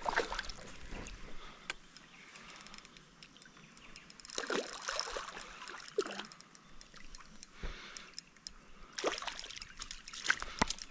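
Light water splashing and trickling, with scattered small clicks and knocks and a few louder splashy bursts about halfway through and near the end.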